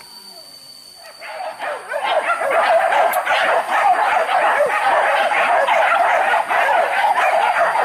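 A pack of hunting dogs barking and yelping all at once, starting about a second in and building within another second to a dense, continuous chorus. The hunters take the pack's cry for the start of another chase after a wild boar.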